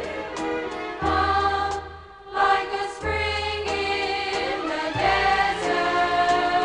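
A church choir singing gospel music with accompaniment, with a low bass note recurring about every two seconds and light regular ticks over it. The music thins out briefly just after two seconds in, then comes back.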